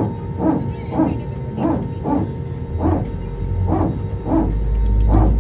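Airbus A320neo's hydraulic power transfer unit barking in the cabin, a dog-like series of short pulses about two a second. About four seconds in, a deep engine rumble swells as the engines spool up.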